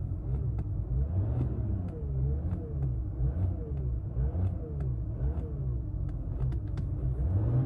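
Volkswagen Touareg TDI diesel engine being revved in a series of short blips, each a quick rise and fall in pitch, about once a second, over a steady idle.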